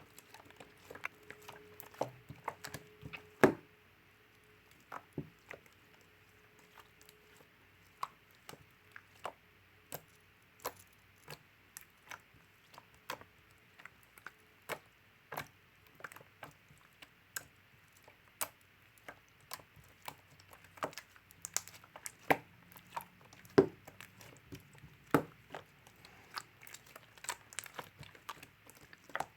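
Marbled mixed slime being pressed and stretched by hand, making sharp, irregular clicks and pops about once or twice a second, with a louder pop about three and a half seconds in.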